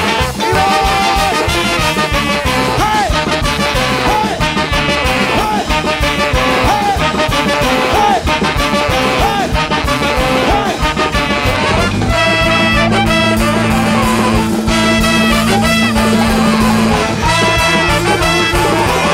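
Large free-jazz big band playing live, with horn lines over drums and bass. Partway through, a low note is held for several seconds.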